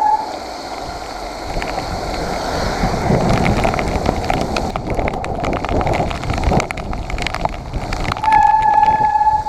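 Mountain bike ridden along a wet, muddy trail in the rain: steady tyre and wind noise, with a run of rattles and knocks from the bike over rough ground in the middle, and a steady high hum for about a second near the end.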